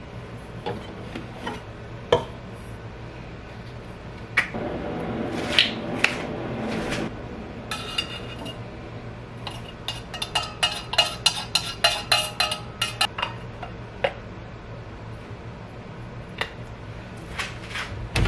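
Kitchenware being handled: cups, dishes and cutlery knocked and set down, with a quick run of ringing clinks about ten seconds in, the sound of making a cup of tea.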